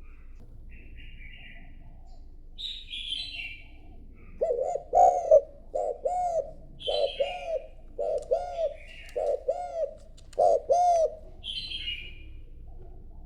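A decoy spotted dove gives its cooing call, a run of about eight low, arched coos from about four seconds in to near the end. A few short, higher chirps from another small bird come in between.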